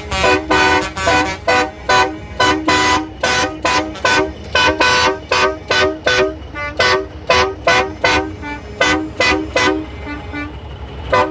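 Truck horn tooted in a fast rhythmic run of short blasts, about three a second, on changing notes like a tune, over a steady engine rumble. The blasts stop near the end.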